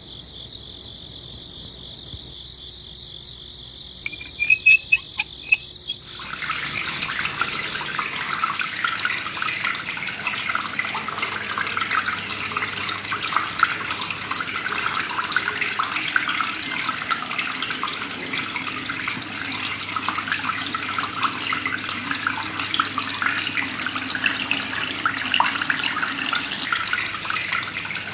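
Water gushing and splashing steadily from a miniature DIY water pump, starting about six seconds in. Before that there is a faint steady high whine and a few sharp clicks.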